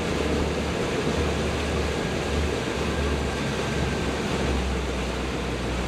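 Boat motor running steadily at cruising speed, a low rumble under a continuous rush of wind and water.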